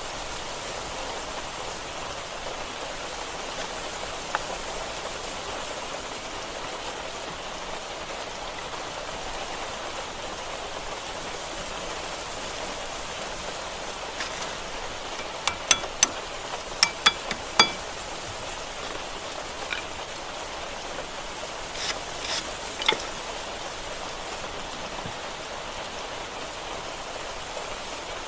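Steady rain-like hiss throughout, with a quick run of sharp metallic clinks about halfway through and a couple more some seconds later, like tools or brake parts being handled.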